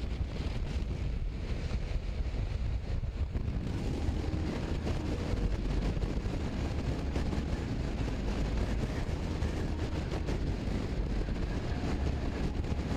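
Wind rushing over the microphone of a motorcycle being ridden, with steady road and engine rumble underneath.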